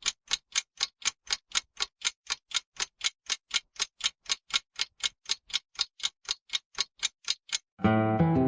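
Rapid, even ticking at about four ticks a second, like a clock or stopwatch, stopping as strummed acoustic guitar music comes in near the end.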